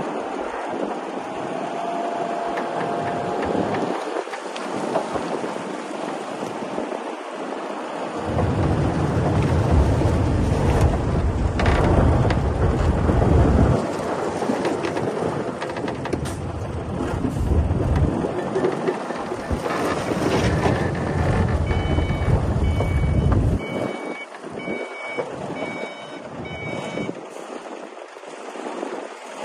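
Heavy earthmoving machinery at work: a diesel engine running with a rumble that grows louder for a few seconds about a third of the way in. Later, a reversing alarm beeps evenly, about one and a half beeps a second, for several seconds.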